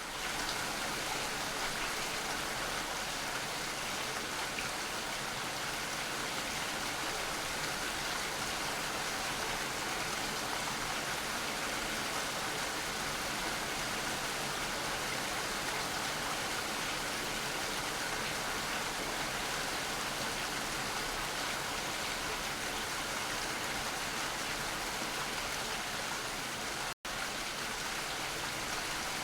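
Steady heavy rainfall: a dense, even hiss of falling rain that drops out for an instant near the end.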